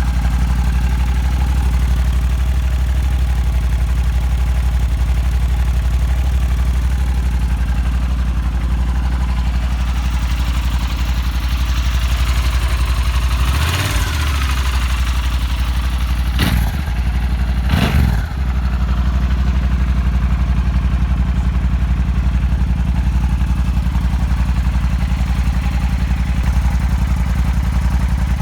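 2012 Yamaha Super Ténéré's 1200 cc parallel-twin engine idling through its stock exhaust, which is very quiet. About halfway through the throttle is blipped three times, the revs rising and falling back to idle each time.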